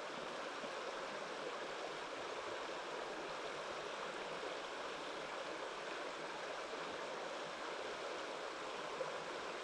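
Mountain stream water flowing, a steady even rush with no breaks.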